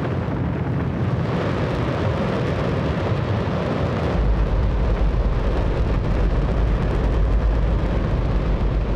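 Hydrogen-oxygen rocket engine test-firing on a test stand: a loud, continuous roar whose deep rumble grows heavier about four seconds in.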